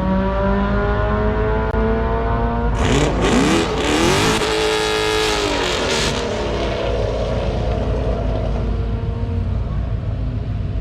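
Race-prepped cars running at a drag strip: an engine revs with its pitch climbing steadily, then a much louder, harsher stretch of engine noise comes in about three seconds in and lasts about three seconds before the engine sound fades away down the track.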